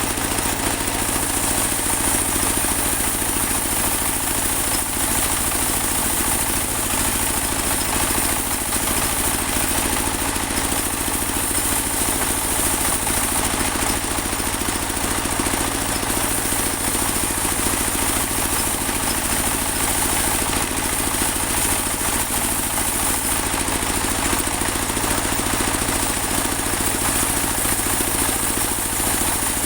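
Engine of a portable band sawmill running steadily, holding the same pitch and level throughout.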